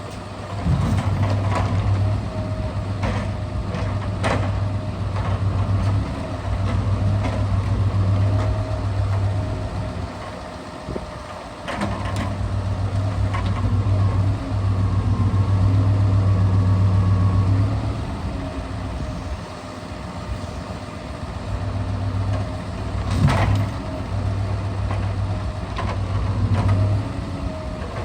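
Scania R650's V8 diesel engine running while the truck's Epsilon timber crane loads logs, its hum getting louder and quieter in stretches of several seconds. A few sharp knocks come through, the loudest about twelve seconds in and again near the end.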